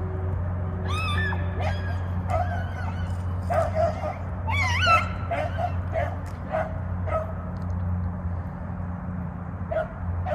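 Hunting beagles baying on a rabbit's trail: drawn-out, bending howls from about a second in, then a string of short, evenly spaced yips, with more yips near the end.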